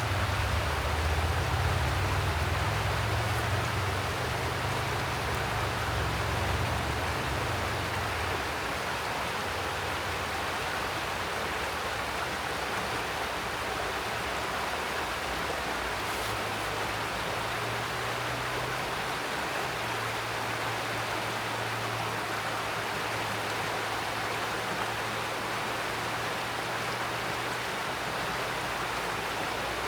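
Mountain stream rushing and splashing over rocks, a steady even wash of water. A low rumble sits underneath for the first several seconds, fades, and returns more faintly later.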